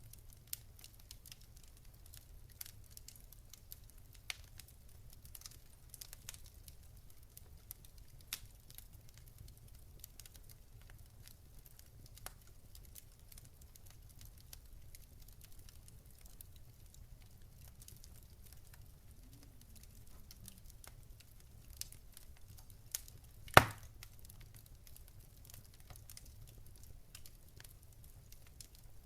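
Wood fire crackling: scattered small irregular pops, with one loud sharp pop about two-thirds of the way through.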